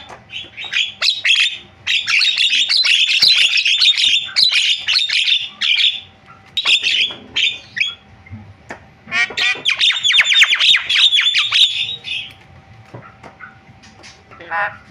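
Javan myna singing a varied song of rapid squawks and chattering notes in bursts, the loudest burst about nine to twelve seconds in, then quieter near the end.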